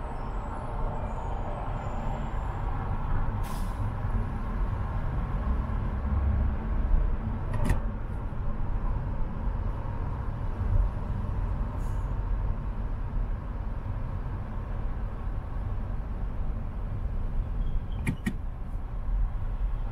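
A car driving in slow city traffic: a steady low rumble of engine and tyres on the road, with a few brief clicks.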